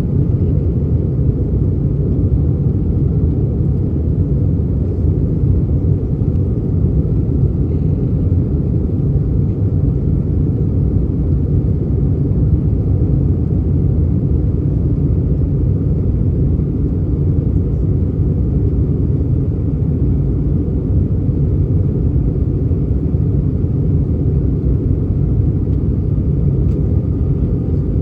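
Steady low rumble of airflow and engines inside the cabin of an Airbus A319 airliner in flight on its descent, even and unchanging throughout.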